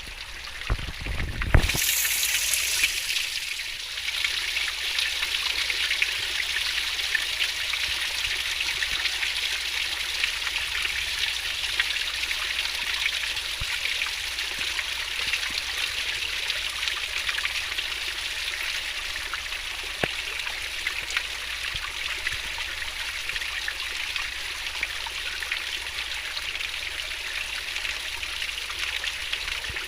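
Swiftly flowing stream, its water babbling steadily. There is a low thump near the start, after which the flow sounds a little louder.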